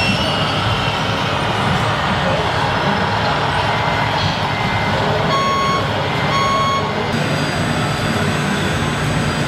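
Truck reversing beeper sounding two beeps about a second apart, a little past the middle, over a steady engine rumble.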